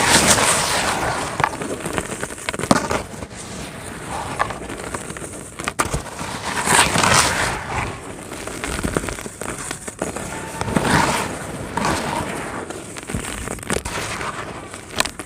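Dry pure cement crumbling and crunching with a dense crackle, in loud bursts every few seconds and a quieter crackle between them.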